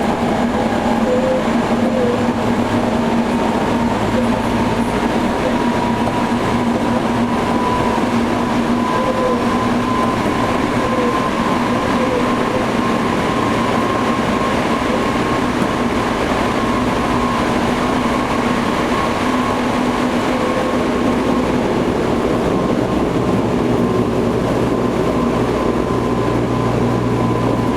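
Toei 5300 series electric train running, heard from inside the passenger car: steady wheel and rail noise with a continuous whine.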